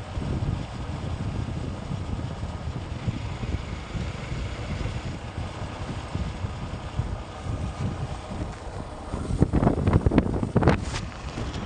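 Motorcycle riding on the road: a steady engine-and-road drone with wind buffeting the microphone, and a few sharper, louder gusts of noise near the end.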